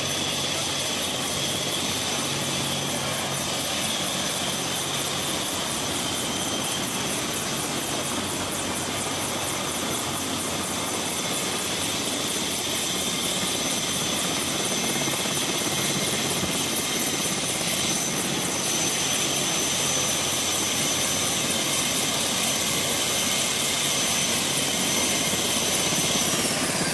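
Helicopter turbine engine and rotor running, a steady dense noise with a thin high whine over it. Near the end the whine begins to fall in pitch.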